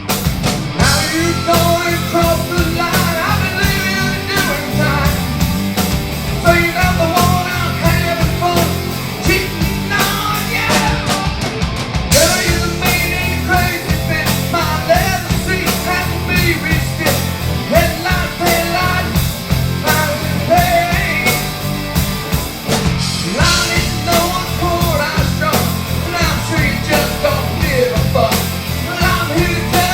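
A rock band playing a country-rock song with a sung vocal line over guitar, bass and drums.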